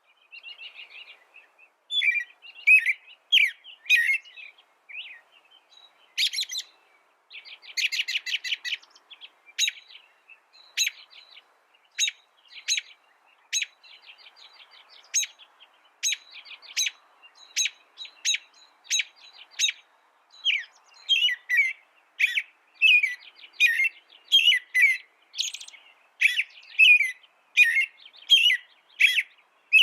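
A small songbird singing a varied song: quick rattling trills, sharp single chirps about once a second, and busier warbled phrases in the last third.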